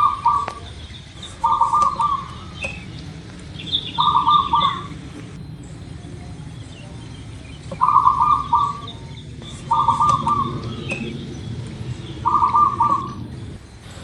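Zebra dove (perkutut) singing: a short phrase of rapid stuttering coo notes, repeated about every two to four seconds, with faint high chirps of other small birds behind it.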